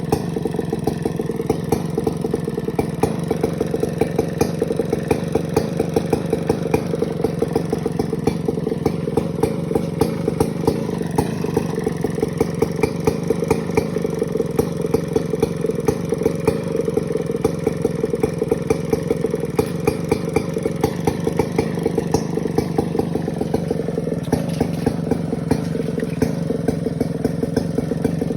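STIHL 070 large two-stroke chainsaw running steadily, its engine firing in a fast even rattle with no pauses.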